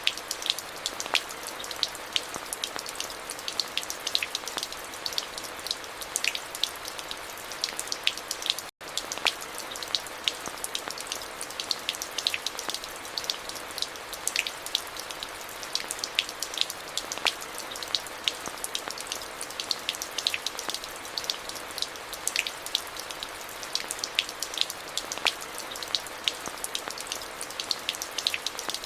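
Steady rain with many separate drops ticking sharply against a constant hiss. The sound cuts out completely for a split second about nine seconds in, then carries on unchanged.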